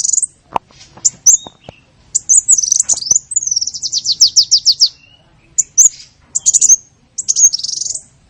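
Small songbird calls used as a lure (pikat) for small birds: quick, high, sharp chirps and twitters in short bursts, with a fast trill of about ten down-sweeping notes around the middle.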